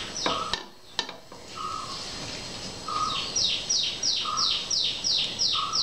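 Birds calling: a quick series of short high chirps, each dropping in pitch, about three a second from around three seconds in, with a short level note repeated about every second and a half.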